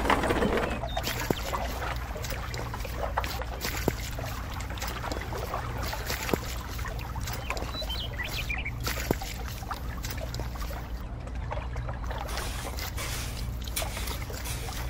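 Wet cement mix sliding and plopping out of a toy wheelbarrow in the first second, then faint wet scraping and small ticks as a tiny shovel spreads it, over a steady low hum.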